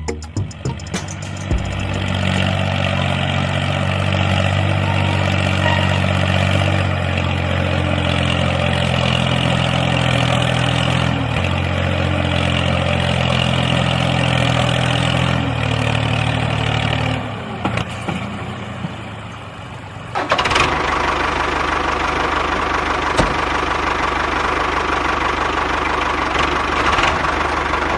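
An engine or motor running steadily. After a brief drop in level about two-thirds of the way in, it turns to a rougher, noisier sound.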